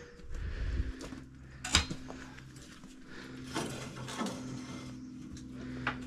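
A few light metallic clinks and knocks from hands-on work on a band sawmill's blade and guide parts, over a steady low hum.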